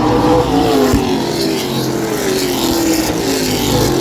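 Several race trucks running at speed around a short oval track, engines passing close by, with their engine notes sliding down in pitch as they go by.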